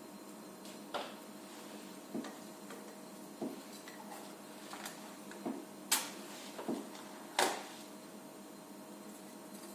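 Fireplace being lit: irregular sharp cracks and knocks, about eight of them, the loudest two just past the middle, over a faint steady hum.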